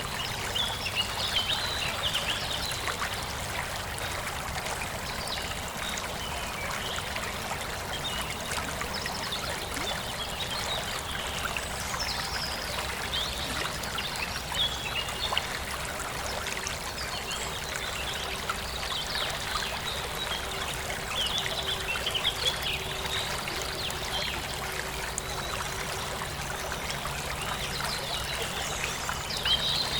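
Forest stream flowing and trickling steadily, with birds chirping now and then: about a second in, around the middle, and again near the end.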